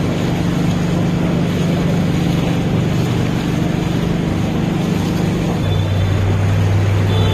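Bus engine running with a steady hum, heard over an even hiss of heavy rain and wet road; the engine note drops slightly about five and a half seconds in.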